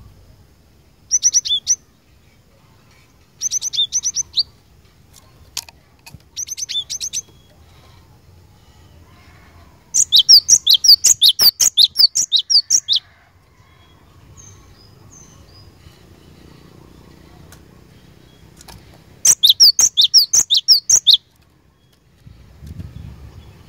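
Cinereous tit singing: three short bursts of high chirping notes, then two longer runs of loud, rapidly repeated notes, about 10 and 19 seconds in.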